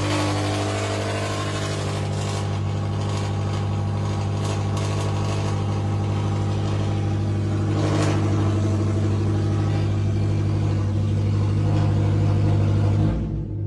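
Toyota GT86's flat-four engine running steadily through a loud aftermarket exhaust, holding an even note, with a brief sharper crackle about eight seconds in. The sound cuts off suddenly near the end.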